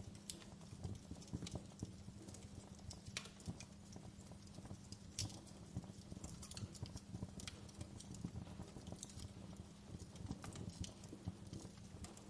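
Wood fire crackling in a fireplace: a continuous low rumble of flames with irregular small pops and an occasional sharper crack.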